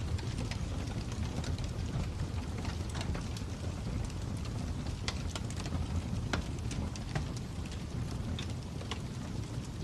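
Crackling fire: a steady low rumble of burning with irregular sharp pops and snaps scattered through it.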